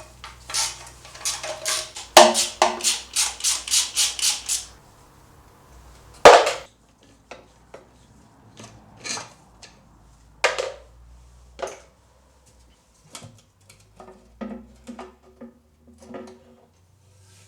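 Hand tools clicking and clanking on metal parts while a component is taken off an engine. About two seconds in comes a quick, even run of clicks, about three a second, then a loud knock and scattered single knocks and clinks.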